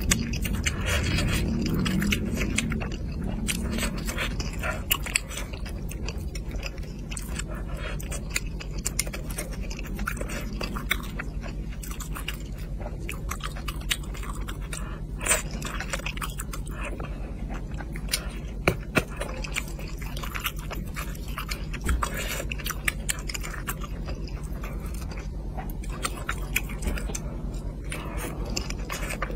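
Close-miked chewing and mouth sounds of a person eating, with many small sharp clicks and smacks throughout.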